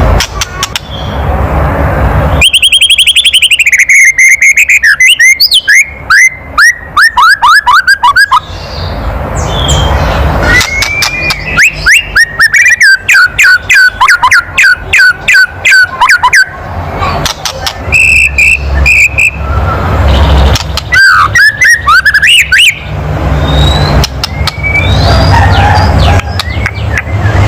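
White-rumped shama (murai batu) giving its kretekan call: three bouts of rapid dry rattling clicks mixed with short whistled notes that slide downward. This is the agitated rattle that keepers play to provoke other shamas into calling.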